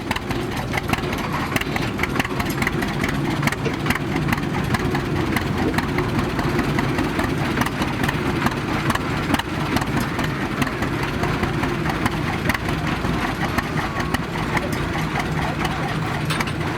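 Tractor engine running steadily at idle, with people talking.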